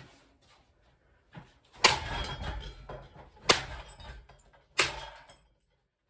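Three hard blows against a hanging cheap Seasons ceiling fan, each a sharp crack with a short rattle after, knocking a blade off.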